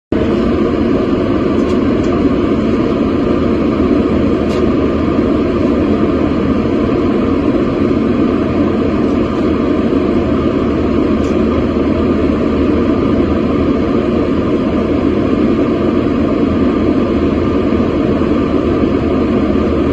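Steady cabin noise of an airliner in flight: an even, unbroken rush of engine and airflow noise.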